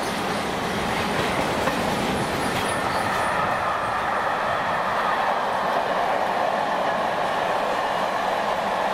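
Empty covered car-carrier wagons of a freight train rolling past: a steady rumble and rattle of steel wheels on the rails.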